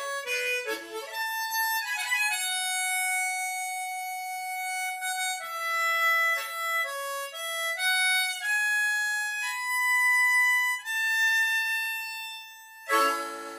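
Small harmonica playing a slow single-note melody with long held notes, closing on a fuller chord near the end.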